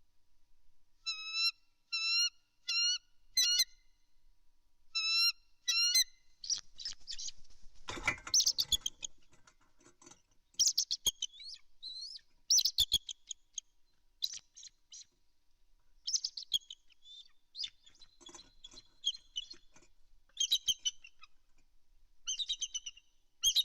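Bald eagles calling at the nest. A series of short, thin, high whistled notes comes about one every 0.8 s, then breaks into a faster, squealing chatter that comes and goes in runs, with a brief rustle about 8 seconds in.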